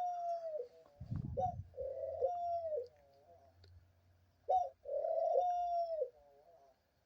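Pet dove cooing: a two-part coo, a short note followed by a longer one that rises and falls, repeated three times about two seconds apart. A soft low thump about a second in.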